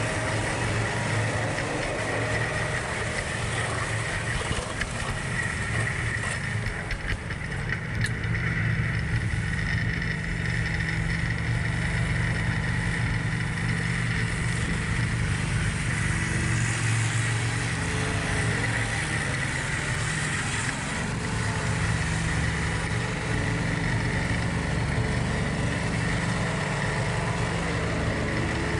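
John Deere 4110 compact tractor's three-cylinder diesel engine running steadily, with a steady high whine along with it.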